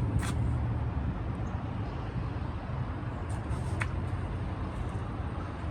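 Cummins diesel engine of an International MV truck idling with a steady low rumble, with two brief clicks, one near the start and one about four seconds in.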